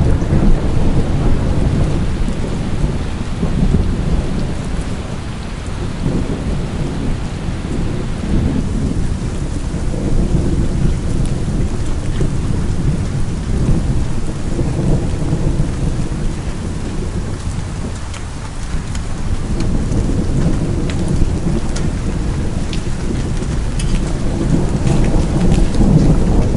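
Heavy rain with rolling thunder, a deep rumble that swells and fades over many seconds. A few sharp ticks of drops striking a surface stand out near the end.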